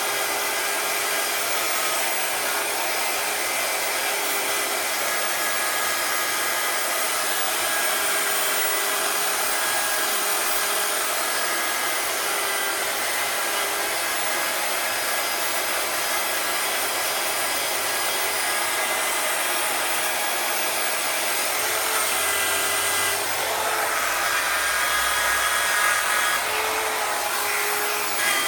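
Electric power tool running steadily with a whine, polishing a Porsche 911 SC engine case. Near the end it gets rougher and a little louder, with a low rumble.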